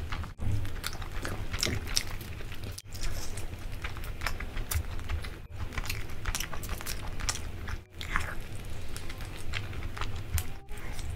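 Close-miked eating of roasted chicken: chewing, biting and tearing the meat by hand, heard as a dense run of small clicks and crunches. The sound drops out briefly about every two to three seconds.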